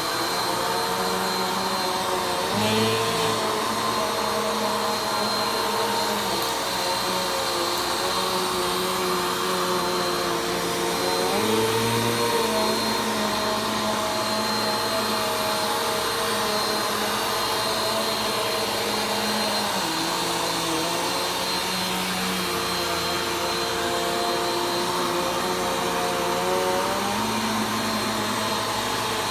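Vacuum cleaner running steadily during slow vacuuming, its motor tone dipping and rising in pitch every several seconds as the load on it changes.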